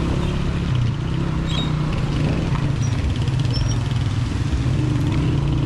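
Honda 125 motorcycle's single-cylinder four-stroke engine running steadily while riding.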